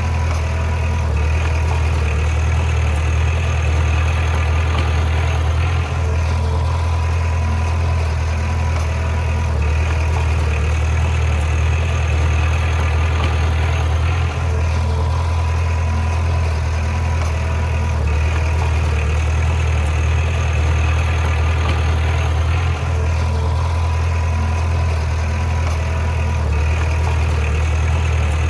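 Bulldozer's heavy diesel engine running steadily at a deep, even pitch, with a brief dip and change in tone about every eight seconds.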